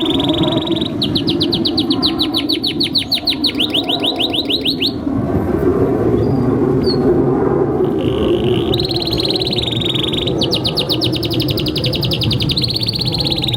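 Domestic canary singing a long rolling song: held high trills alternating with fast runs of repeated notes. The song breaks off for about three seconds midway and then resumes, over a steady low background noise.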